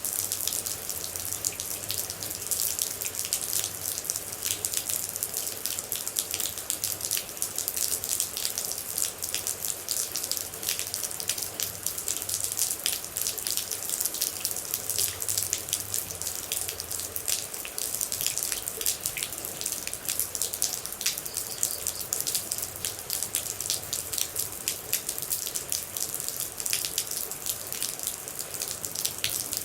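Steady rain with water droplets dripping and splashing: a dense, even patter of many small drops that doesn't let up.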